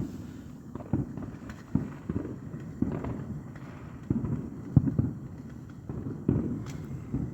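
Distant fireworks going off in an irregular string of about a dozen low, booming bangs, each trailing a rumbling echo.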